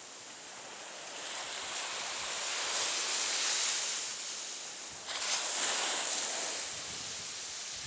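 Surf on the shore: one wave swells in and washes up over a few seconds, then a second breaks suddenly about five seconds in and hisses away.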